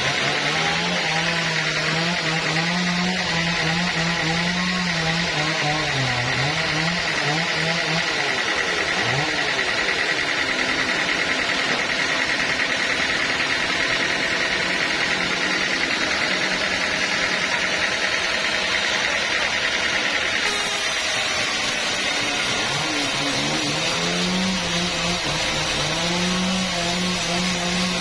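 Sawmill sawing a teak log: a steady high whine from the cut over a motor whose pitch wavers and dips under load. About two-thirds of the way through, the high whine stops abruptly and the sound changes.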